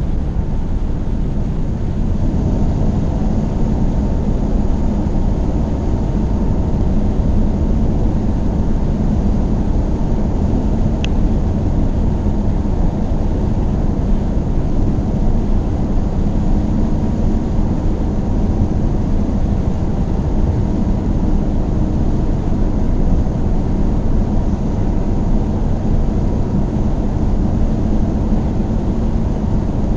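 Car driving at a steady speed: continuous engine and tyre-on-road noise, a low, even rumble with no change in pitch.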